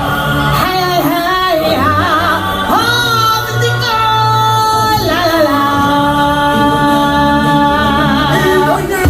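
A singer performing over backing music. The voice moves through short sung phrases, then holds one long note from about five seconds in until just before the end.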